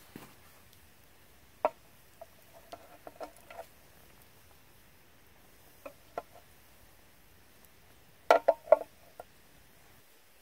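Scattered short taps and knocks: a single sharp one about one and a half seconds in, a few quicker ones around three seconds, two near six seconds, and a quick cluster of four or five louder ones near the end.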